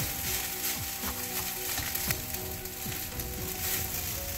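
Fried rice stir-frying in a nonstick wok: a steady sizzle, with a slotted spatula scraping and turning the rice against the pan in irregular strokes.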